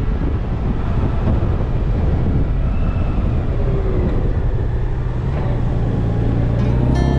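Honda Gold Wing GL1800's flat-six engine running under way, with wind rushing over the microphone; a steady low engine hum comes up more clearly in the second half.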